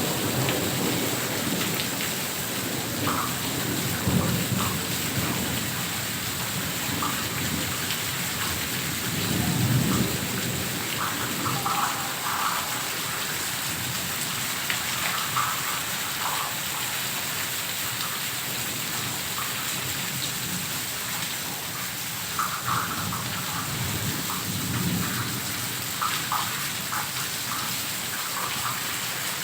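Heavy rain falling steadily, a continuous hiss with scattered patters of drops. A few times, low rumbling swells build and fade under it.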